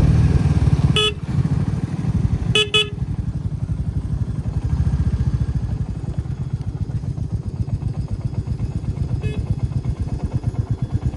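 Motorcycle engine running with a steady rapid beat, easing off about a second in. A horn beeps once, then twice in quick succession, and once more faintly near the end.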